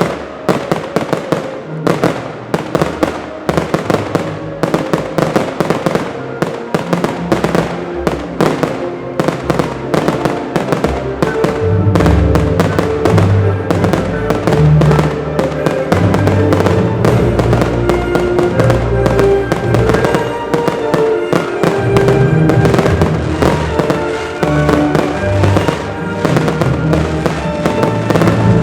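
Fireworks display: a dense run of bangs and crackling reports, many a second, over music with sustained notes and a bass line.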